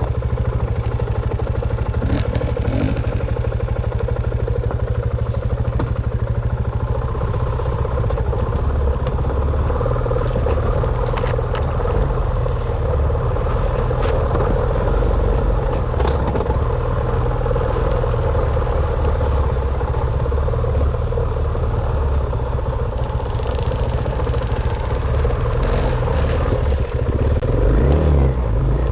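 Dirt bike engine running steadily while being ridden, with rattling clatter and a few sharp knocks.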